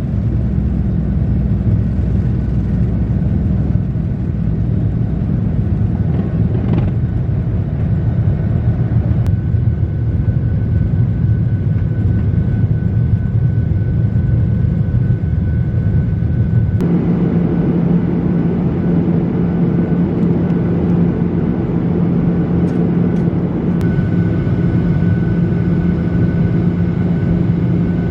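Airliner cabin: steady engine rumble while the plane taxis. About 17 seconds in the engine sound changes to a steady hum with a thin high whine as the engines power up.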